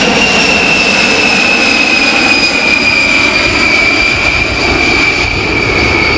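B-52H Stratofortress's eight TF33 turbofan engines at high power, a loud, steady jet noise with a high whine that slowly falls in pitch.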